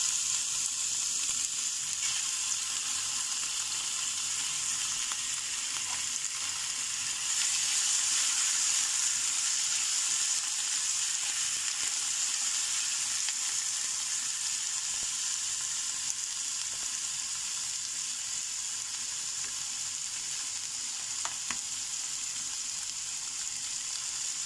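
Raw chicken breast strips sizzling steadily in hot olive oil in a frying pan, stirred now and then with a spatula.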